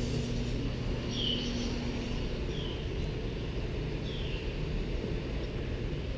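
Steady low outdoor rumble, like wind on the microphone or distant traffic, with a bird giving a short falling chirp every second or so, four times.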